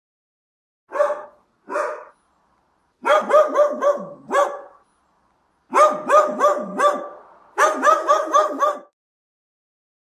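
Dog barking: two single barks, then three quick runs of about five barks each, roughly four barks a second.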